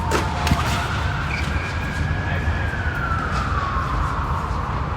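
Emergency vehicle siren wailing in the distance, rising slowly for about two seconds and then falling away, over steady outdoor rumble. A couple of sharp tennis-ball hits sound near the start.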